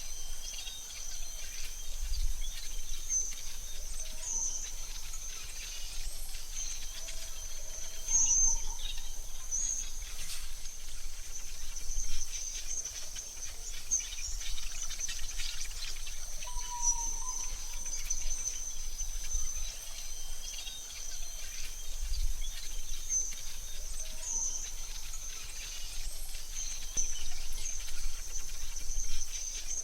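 Forest ambience: a steady high-pitched insect drone, with short bird chirps scattered through it.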